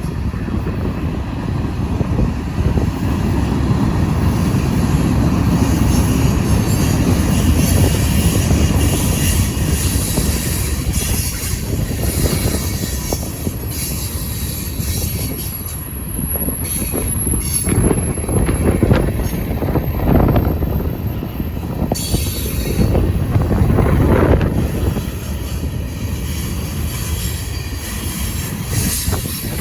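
Freight train cars rolling past on the rails, a steady heavy rumble of wheels that swells and eases. A thin high wheel squeal rises above it for several seconds past the middle.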